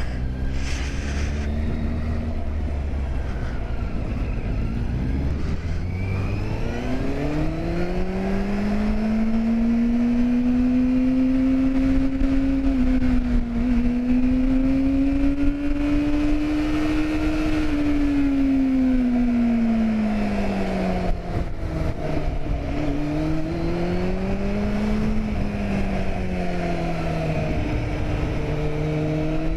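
Vehicle engine running, its pitch rising and falling in long, slow sweeps as the revs change, with a brief dip about two-thirds of the way through.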